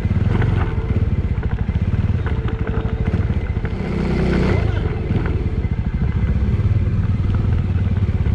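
Suzuki Thunder motorcycle engine running, its firing pulses steady and close together, with a brief swell of louder noise about four seconds in.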